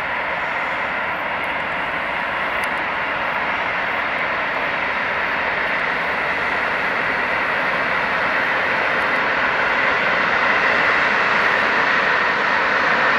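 SNCF BB 26000-series electric locomotive hauling a freight train of covered wagons past, a steady rolling rush of wheels on rails that slowly grows louder.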